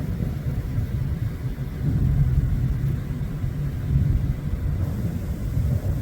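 Strong wind buffeting the microphone: a low, gusty rumble that swells and eases irregularly.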